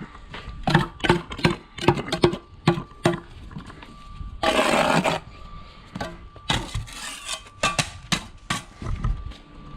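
Bricklaying work on concrete blocks: a quick run of taps and knocks, some with a short ringing note, a brief scrape about four and a half seconds in, then more scattered knocks.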